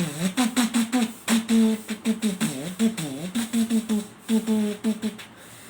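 A man vocally imitating the chime that precedes a railway station announcement: a hummed tune of short held notes, with a run of beatbox-like mouth pops and clicks at the start.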